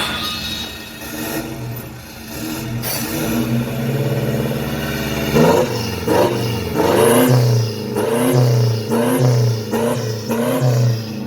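Toyota Fortuner VRZ diesel engine heard through a full-stainless aftermarket exhaust, running with a slow rise in revs, then from about halfway blipped repeatedly, about once a second.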